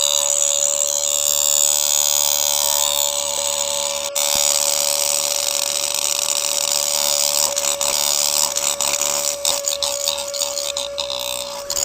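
Small electric motor of a homemade model machine running steadily with a constant whine.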